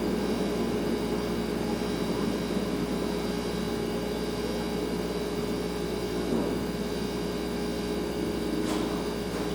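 Kitchen refrigerator running, a steady hum with several constant tones over a soft hiss.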